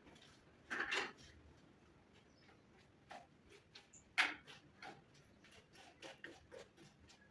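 Irregular light clicks and knocks, with two louder ones about a second in and a little after four seconds.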